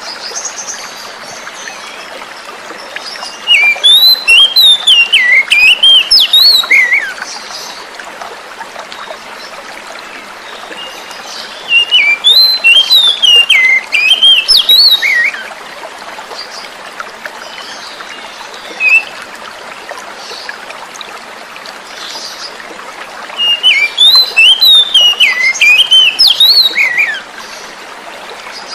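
Oriental magpie-robin (kacer) singing in three bouts of fast, whistled, swooping phrases, each a few seconds long, with a single note in between, over a steady sound of running water.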